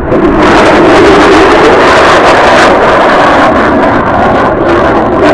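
Very loud jet noise from the F-35A Lightning II's single afterburning turbofan as the fighter makes a low pass. The noise rises abruptly, holds and then eases off slightly.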